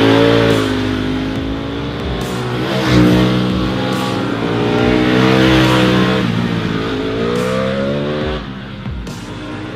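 Ducati Panigale V4 superbike's V4 engine revving, its pitch climbing and falling several times, loudest about three seconds in and easing off near the end.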